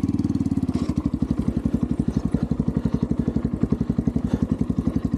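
Xpro Templar X 250cc dirt bike's single-cylinder four-stroke engine running at low revs in first gear, a steady, even stream of firing pulses.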